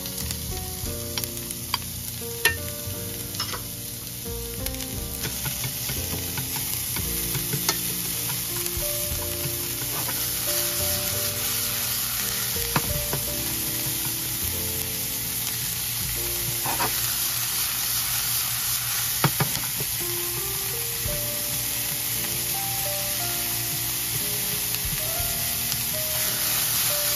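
Diced beef with onion and garlic sizzling in a frying pan, stirred with wooden chopsticks that click against the pan now and then; the sizzle grows a little louder as the meat cooks.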